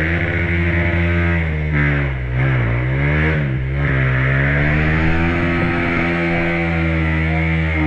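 Off-road motorcycle engine revving hard and unevenly, its pitch rising and falling with the throttle and dipping sharply twice near the middle.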